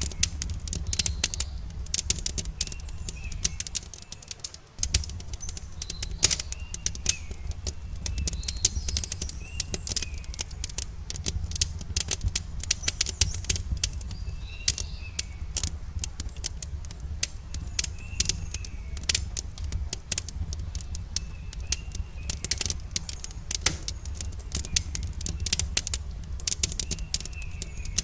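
Wood campfire crackling with dense, irregular pops and snaps over a steady low rumble, while birds chirp in short repeated calls throughout.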